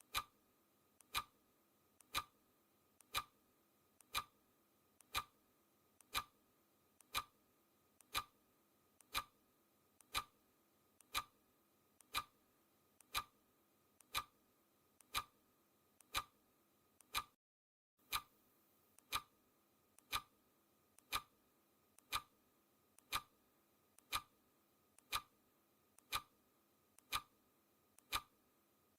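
Clock ticking sound effect, one tick each second, steady and even, each tick a faint click just before a louder one. The ticking drops out for about half a second roughly two-thirds of the way through, then resumes.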